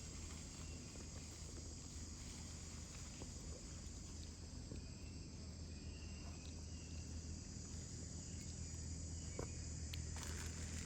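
Faint steady outdoor background: a high, even insect chirring over a low hum, with a few small clicks and taps.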